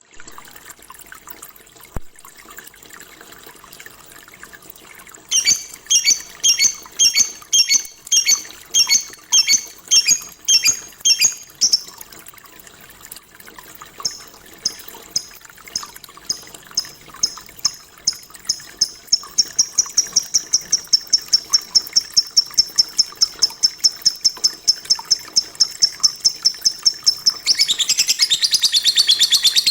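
Lovebird calling. About five seconds in come sharp high chirps roughly two a second. After a short pause a long run of chirps speeds up into a fast trill, which breaks into rapid chattering song near the end.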